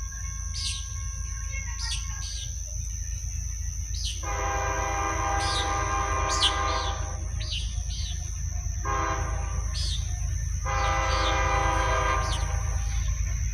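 First-generation Nathan Airchime K5HL five-chime air horn on CSX locomotive 5257 sounding a long blast, a short one, then another long one.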